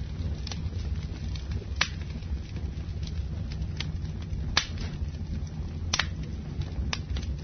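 Campfire burning: a steady low rumble of the flames with sharp wood crackles and pops every second or so, the loudest at about 2, 4.5, 6 and 7 seconds in.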